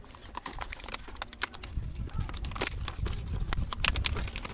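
A toy box being opened and unpacked: cardboard and plastic packaging handled, with a rapid scatter of clicks, taps and crinkles.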